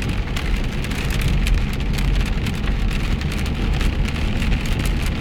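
Heavy rain hammering down: a dense, steady patter of drops over a deep rumble.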